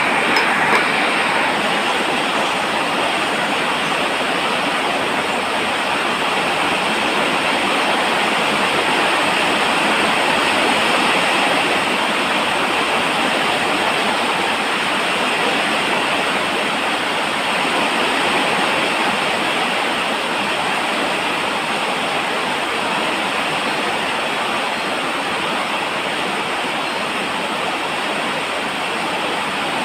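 Steady, unbroken rain falling, a dense even hiss with no drops or rhythm standing out.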